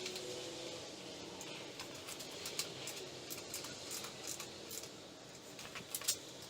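Irregular light clicks and taps, with the sharpest about two and a half seconds in and about six seconds in, as parts and tools are handled while fitting a motorcycle's rear axle slider.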